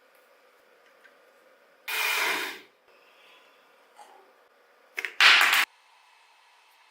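Two short bursts of hissing noise, the second louder and cutting off abruptly.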